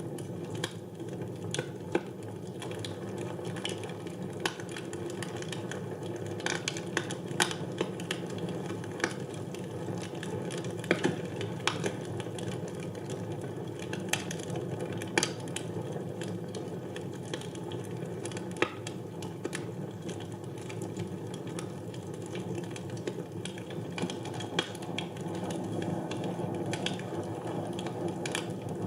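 Wood fire burning in a fireplace: a steady low rush of flames with irregular sharp crackles and pops of the burning logs.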